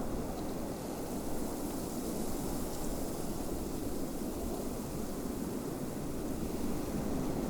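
Snowstorm wind blowing as a steady, low, even rush.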